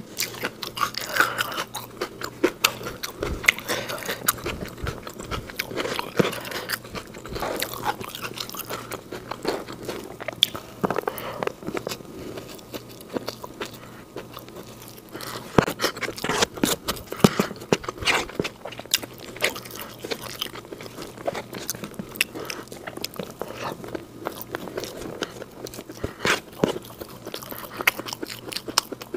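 Close-miked chewing and crunching of fried rice and raw green beans, eaten by hand: a dense run of crisp crunches and wet mouth clicks that thins out a little before halfway and picks up again just after.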